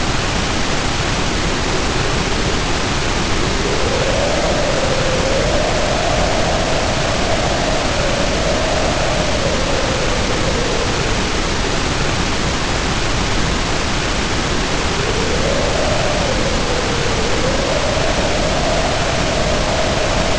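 Storm rain pouring in a dense, steady hiss, with wind howling over it: two long moans that rise and fall in pitch, one a few seconds in and another in the second half.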